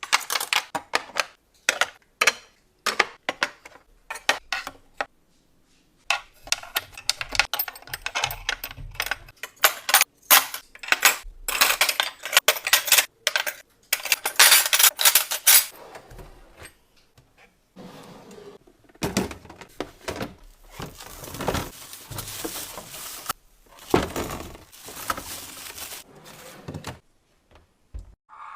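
Close-up kitchen handling sounds: dishes, containers and utensils clinking and tapping in quick runs of clicks, with longer rustling and scraping stretches between them.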